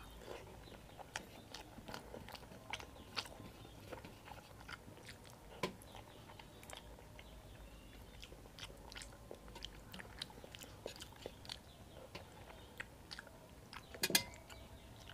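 Close-miked chewing and wet mouth clicks of rice and dal eaten by hand, with fingers scraping the last rice together on a steel plate; faint, scattered short clicks. A brief louder clatter comes near the end.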